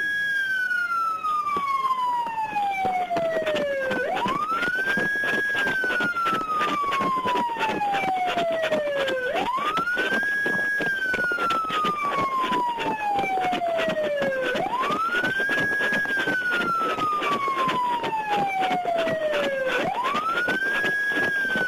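Police car siren wailing. Each cycle rises quickly, holds briefly at the top, then falls slowly over about four seconds, about four times in a row, over a dense crackle.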